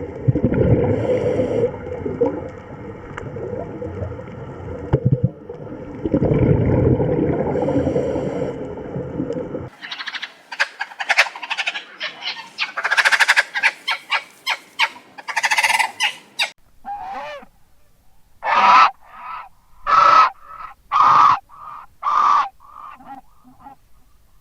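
A low, noisy rumble for about the first ten seconds, which cuts off suddenly. Then waterfowl give a run of short, loud honking calls, at first rapid and overlapping, later as single honks about a second apart.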